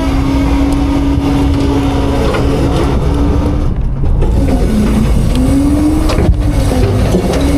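Autocar-Heil Freedom front-load garbage truck running hard while packing: a heavy engine rumble under a steady hydraulic whine. The whine sags in pitch a little past the middle and rises back up.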